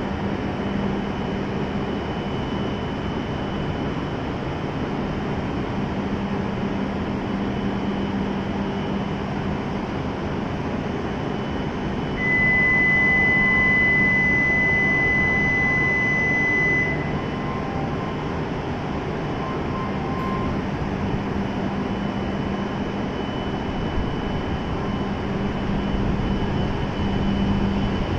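Hokuriku Shinkansen train standing at the platform with the steady hum of its onboard equipment. About twelve seconds in, a steady high-pitched electronic warning tone sounds for about five seconds. Near the end the train noise grows louder as the train begins to pull out.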